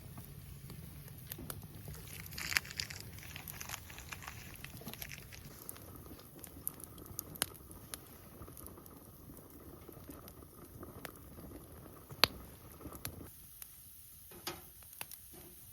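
Wood campfire crackling, with scattered small pops and one sharp pop about twelve seconds in.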